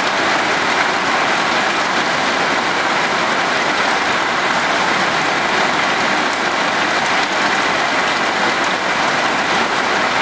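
Heavy monsoon downpour, a steady loud hiss of rain falling and splashing on surfaces.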